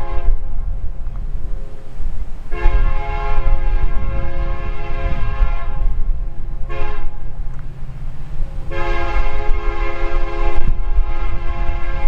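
Union Pacific locomotive's multi-tone air horn sounding for a grade crossing: a long blast, a short blast, then another long blast that is still held at the end. A steady low rumble runs underneath.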